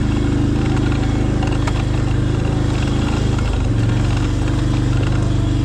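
A small engine running steadily, its pitch dipping briefly and picking up again about three and a half seconds in.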